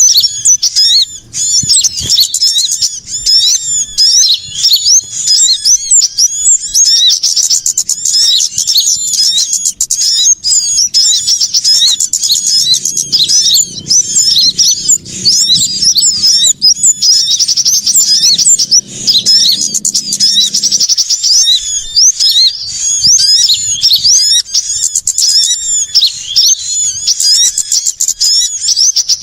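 A dense chorus of many small songbirds chirping and twittering at once, overlapping high, quick calls with no pause: a bird-lure recording of noisy small birds such as sunbirds.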